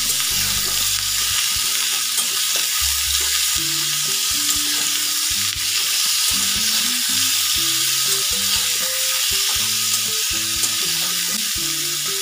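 Diced potatoes frying in hot oil in a metal kadai, with a steady sizzle, while a metal spatula stirs them, giving scattered scrapes and taps against the pan.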